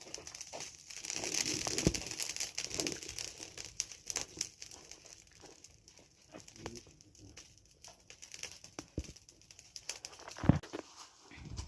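Dry rustling and crinkling with many scattered small clicks, heaviest between one and three seconds in, and a dull thump about ten and a half seconds in.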